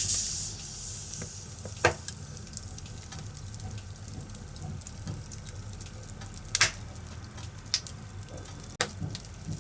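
Firewood burning in a fireplace: a steady hiss and low rumble with scattered crackles and sharp pops, the loudest about two seconds in and again past the middle.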